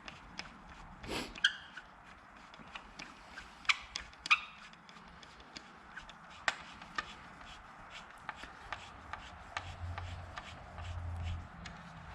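Irregular clicks, taps and light knocks with some rubbing: hand work on a rake while a replacement plastic part is fitted and bolted on, a few sharper knocks standing out among the small handling sounds.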